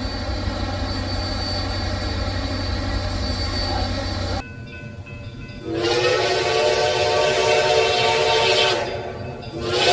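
Steady train running noise with a low hum that cuts off abruptly about four and a half seconds in. Then a steam-type chime whistle blows one long blast, sliding up into its chord as it opens, fades, and starts a second blast near the end.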